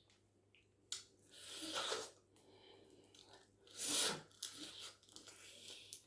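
Close-up eating sounds of a person biting and chewing a meal of spaghetti, shrimp and vegetables. There are two louder bursts, one starting about a second in and one near four seconds, with small wet clicks of chewing between and after.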